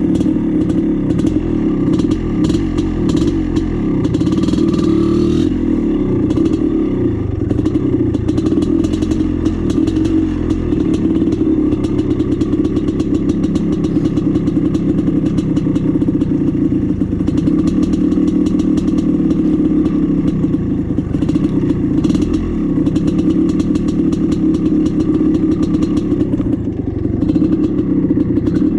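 1996 Maico 440 two-stroke single-cylinder dirt bike engine running as the bike is ridden along a trail, its pitch rising and falling with the throttle. Many short knocks and rattles from the bike over rough ground sound over it.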